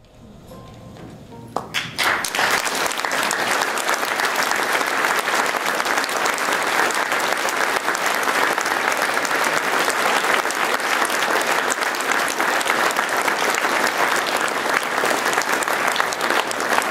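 Large seated audience applauding: the clapping swells over the first couple of seconds, then holds as steady, sustained applause.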